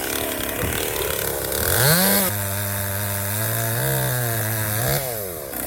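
Two-stroke chainsaw revving up about two seconds in, then dropping to a lower, steady pitch under load for about three seconds, as when cutting through wood. It rises again briefly as it comes free near the end.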